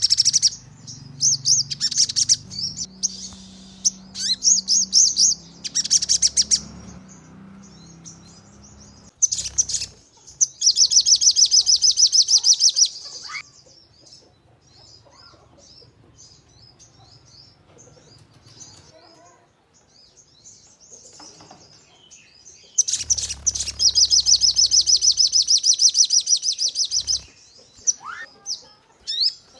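Sogon songbird singing in bursts of fast, sharp, high-pitched repeated notes: the rapid-fire 'nembak' song. There are two long runs, one about ten seconds in and one just before the end, separated by a quieter stretch of soft scattered chirps.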